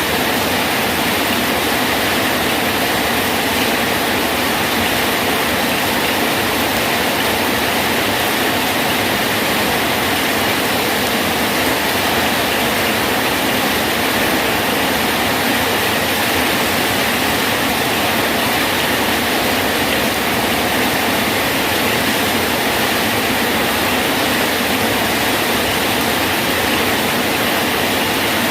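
Rain falling steadily on a bridge, a constant even hiss of drops with no breaks or single impacts standing out.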